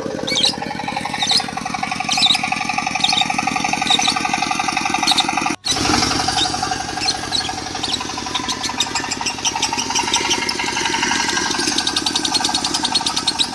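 A lovebird chirping in sharp, high calls over a diesel engine running steadily. About five and a half seconds in the sound drops out for an instant, and after that the chirps come in fast, dense trills, the continuous 'konslet' style of lovebird song.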